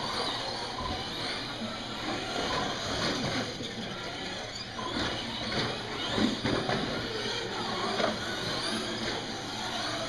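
Radio-controlled short-course trucks racing, their motors whining up and down in pitch as they speed up and slow on the track, with a few sharp knocks.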